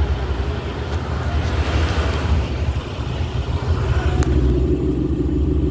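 Bus engine running steadily, low-pitched and continuous, with its exhaust heard close by.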